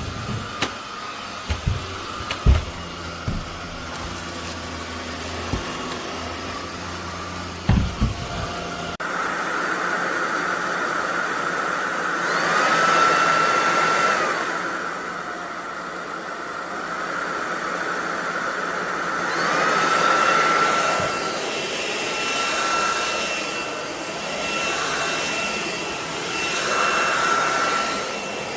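SunSare X11 cordless stick vacuum running, its motor giving a steady whine, with a few sharp knocks in the first eight seconds. Later its pitch and loudness rise and fall back twice, as the motor speeds up and slows.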